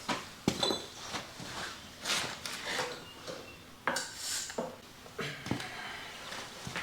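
Tools and metal parts being handled: scattered knocks, clinks and rustles at uneven intervals.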